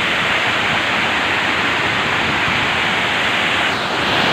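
Large waterfall rushing: a loud, steady roar of falling water.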